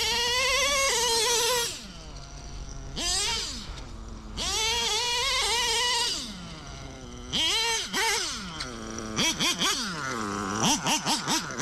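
Novarossi Ultimate M5 .21 nitro engine in a Traxxas Revo, fitted with a Hypex 2135 tuned pipe. It runs high-pitched in repeated throttle pulls, its pitch climbing and falling with quieter stretches between. Near the end come a quick string of short throttle blips.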